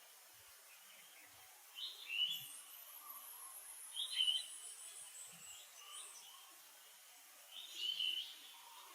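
Birds chirping in three short bursts, about two, four and eight seconds in, with a faint high whistle falling slowly in pitch between them, over a quiet outdoor hiss.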